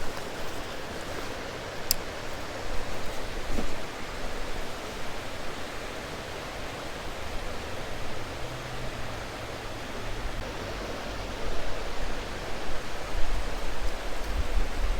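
Creek water running steadily, with a sharp click at the start and another about two seconds in.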